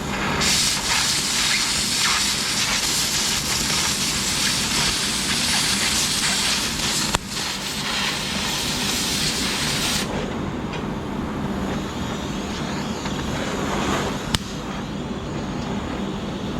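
Flux-core arc welding: the wire-feed arc crackles and sizzles steadily for about nine seconds, breaks briefly once, and stops about ten seconds in. A duller mechanical noise and a low hum continue after the arc stops.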